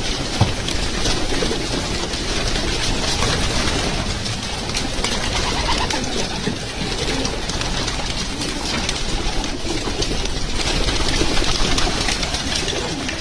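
A loft full of racing pigeons cooing together in a steady, dense chorus, with many small clicks and rustles mixed in.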